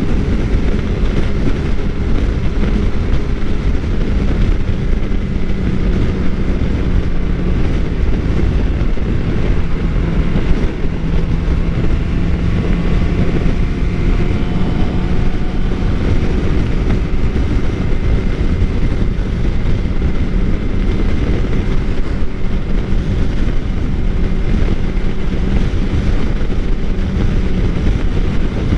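2013 Suzuki GSX-R600's inline-four engine running steadily at cruising speed, its pitch holding level, under heavy wind rush on the microphone.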